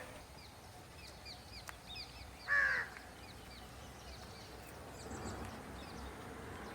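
Birds calling outdoors: one loud, harsh call about two and a half seconds in, over many faint, short high chirps.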